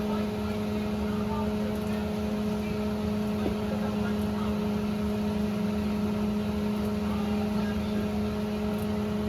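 A steady mechanical hum with a whir, holding one pitch with its overtones throughout.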